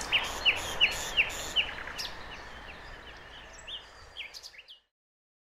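A bird calling in a quick series of short, downward chirps, about three a second, over a steady hiss of outdoor background noise. Both fade away and the sound cuts off a little before the end.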